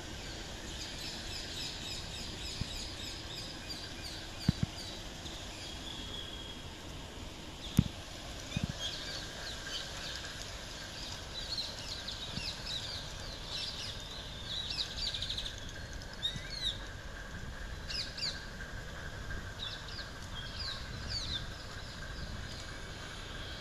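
Small birds chirping in quick runs of short notes, over a steady low background noise, with a few sharp clicks in the first nine seconds.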